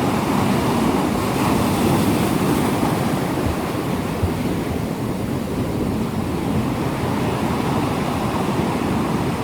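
Ocean surf, a steady wash of waves.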